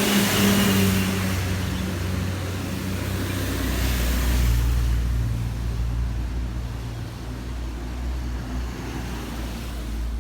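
Motor vehicles passing on the road: engine hum and tyre noise swell and fade at the start, then a heavier vehicle's low engine drone rises about four seconds in and slowly dies away.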